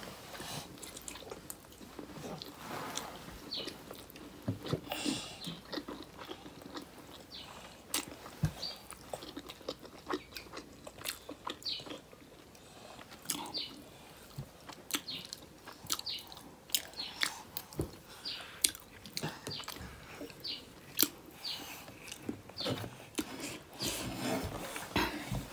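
Close-up eating sounds: wet chewing, lip smacks and small crunches as momos are eaten, in scattered irregular clicks.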